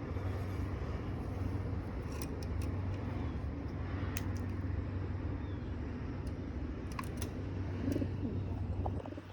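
Pigeons cooing over a steady low hum, with a few light clicks scattered through.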